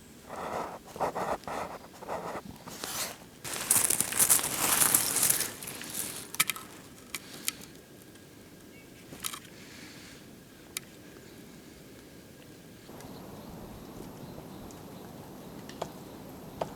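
Rustling and crunching crackles for the first six seconds or so, loudest in the middle, then a few separate sharp clicks over a quiet background.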